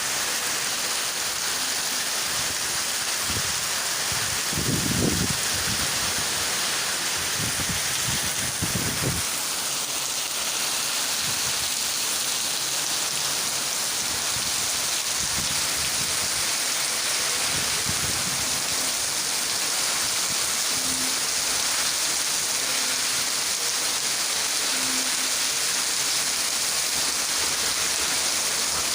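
Heavy rain pouring down steadily. A few low gusts of wind rumble on the microphone in the first ten seconds.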